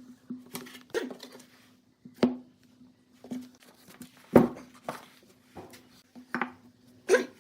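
Irregular knocks and clatters of hard objects being handled, about five louder ones spread through, over a steady low hum.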